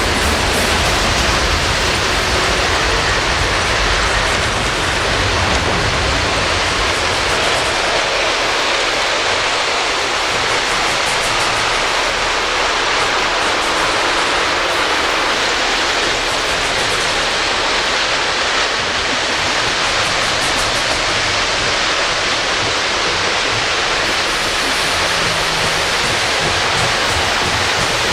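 O scale model trains running on suspended track, making a steady rushing noise with a low rumble in the first several seconds.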